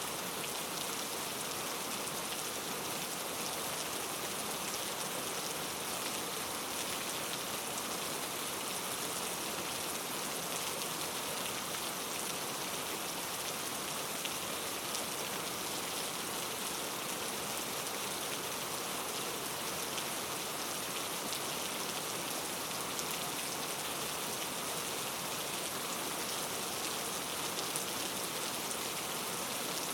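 Steady rain falling and pattering on a surface, an even hiss with fine drop ticks and no letup.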